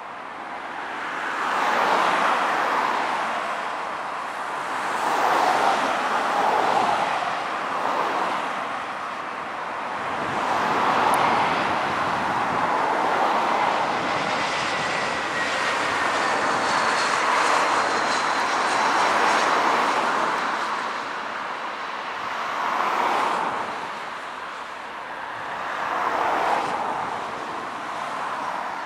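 British Airways Airbus A320 jet engines during landing: a continuous rushing jet noise that swells and fades several times, with a faint falling whine in the middle.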